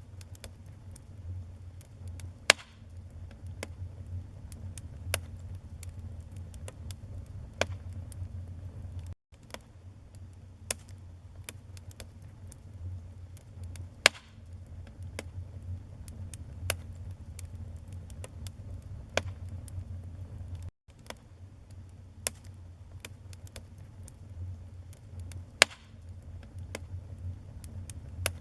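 Wood fire burning in a fireplace: a steady low rumble of flames with irregular sharp crackles and pops from the burning logs, a few of them much louder. The sound cuts out for an instant twice.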